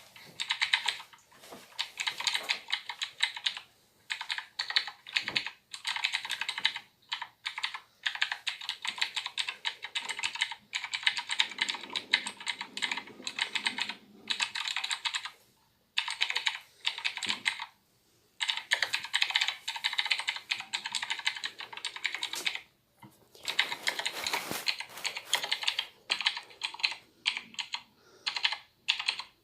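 Typing on a Razer BlackWidow Ultimate 2016 mechanical keyboard: fast runs of sharp key clicks broken by short pauses of under a second.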